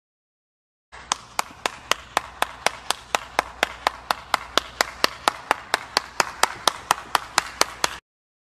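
One person clapping hands steadily, about four claps a second. The clapping starts about a second in and stops abruptly near the end.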